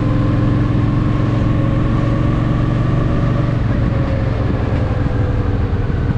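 Honda Shadow VT750 V-twin motorcycle engine running under way, a steady loud rumble whose pitch eases down slightly midway through.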